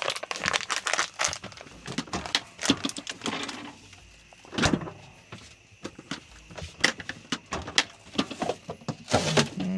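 Rustling, clicks and light knocks from coffee gear and food packaging being handled on a small counter, busier in the first few seconds, with one sharper knock about halfway through.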